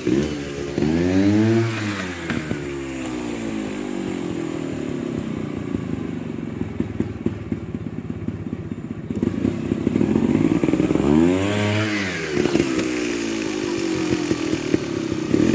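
Trials motorcycle engine running at low revs and twice opened up sharply and let back down, about one and a half seconds in and again near eleven seconds, with some clatter.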